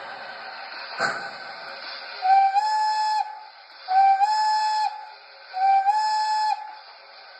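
Steam whistle from an O scale model steam locomotive's onboard sound system, blown three times, each blast just under a second long with a slight step up in pitch, over a steady background hiss. A single short puff of noise comes about a second in.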